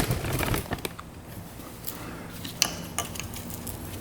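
A few light clicks and taps of small metal engine parts being handled, most of them in the first second, over a faint steady low hum.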